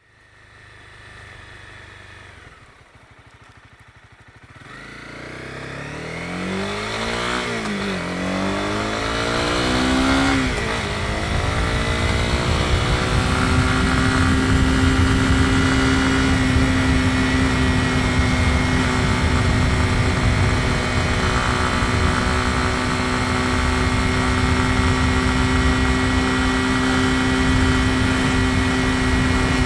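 Honda CB250R single-cylinder motorcycle engine, faint at first, then pulling away with its pitch rising and falling repeatedly for several seconds. It then settles into a steady note while cruising, with a broad rushing noise underneath.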